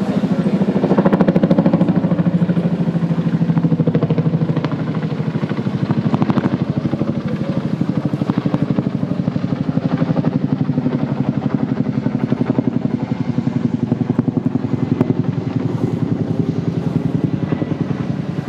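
Seibu 40000 series electric train standing at the platform, its onboard machinery running with a fast, steady chugging pulse.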